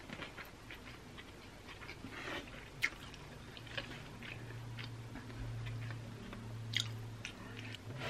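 Close-miked chewing of soft stir-fried yakisoba noodles: wet mouth clicks and smacks, with a couple of sharper clicks. A low steady hum sounds from about halfway through to near the end.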